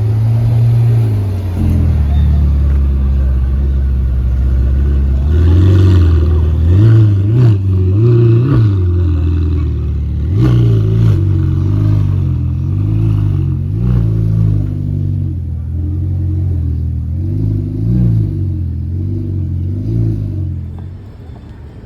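A car engine running with a deep, loud note, blipped again and again so that its pitch rises and falls; it fades away near the end.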